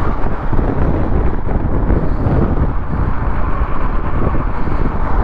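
Steady wind rush over a helmet-mounted camera's microphone on an electric fat bike riding at full throttle, about 23 miles an hour.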